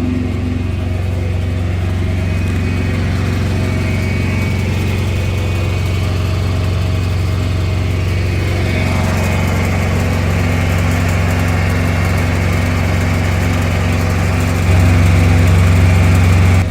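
Diesel engine of a Freightliner semi truck idling steadily, with an even low throb. It gets louder near the end.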